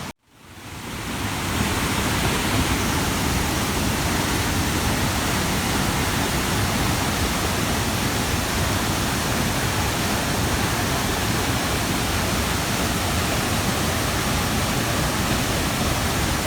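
Waterfall pouring in a steady, even rush, fading in over the first second or so.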